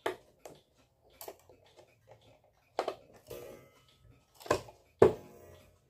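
Irregular sharp clicks and knocks of tools and parts being handled while a wall clock's movement is unscrewed and worked loose from its case. The loudest knock, near the end, rings on briefly.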